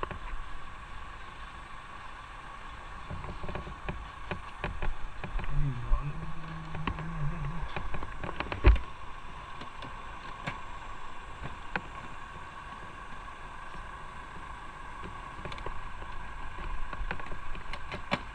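Motorcycle running, with a steady hum and road and wind noise and scattered clicks and knocks; a short low tone rises a little about six seconds in, and a loud thump comes a little under nine seconds in.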